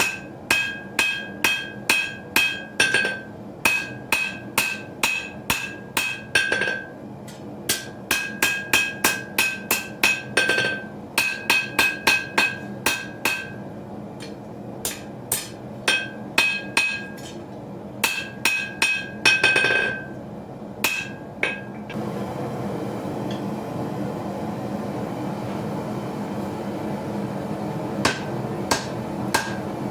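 Hand hammer striking a knife blank on an anvil while forging a small skinner blade: runs of sharp blows, about two or three a second, each with a bright anvil ring, broken by short pauses. About two-thirds of the way through the blows stop and a steady rushing noise takes over, with a few more strikes near the end.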